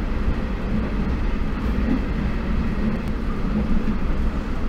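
Hyderabad MMTS electric multiple unit train pulling into a station, heard from inside the coach through the open door: a steady low rumble of wheels and running gear on the track.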